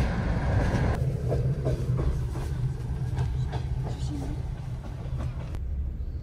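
Passenger train running, heard from inside an open-plan sleeper carriage: a steady low rumble with scattered clicks of the wheels over the rail joints.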